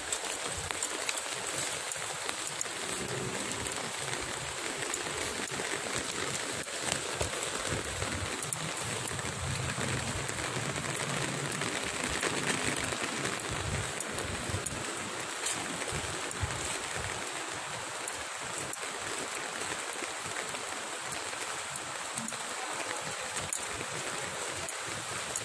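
Steady rain falling on wet pavement, an even hiss with scattered light ticks.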